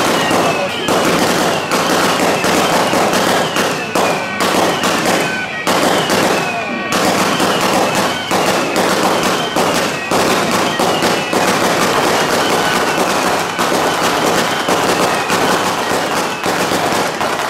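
Firecrackers going off in a loud, unbroken rapid crackle, with short falling whistling tones repeating over it.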